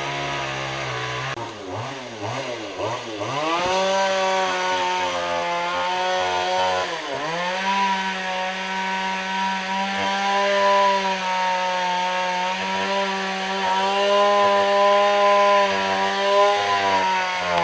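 Chainsaw idling, revved up and down a few times, then held at high revs cutting into wood, its pitch dipping once about seven seconds in.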